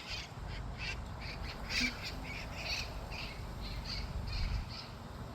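Birds calling in a quick run of short, high-pitched notes, several a second, over a low, steady background rumble.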